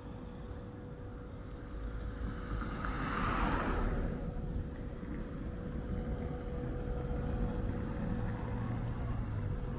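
Street traffic: a low rumble of vehicles, with a passing vehicle's brief rising-and-falling whoosh about three seconds in, and a steady faint hum underneath. An engine rumble grows toward the end.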